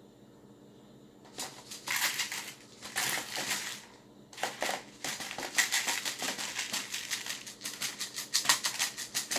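Plastic soda bottles being handled: crinkling and crackling with rapid clicks and rattles, starting about a second and a half in and continuing in dense bursts.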